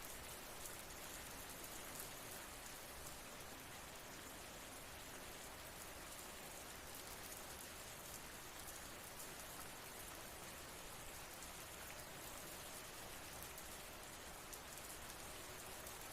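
Steady, faint rain falling, an even hiss with a fine patter of drops.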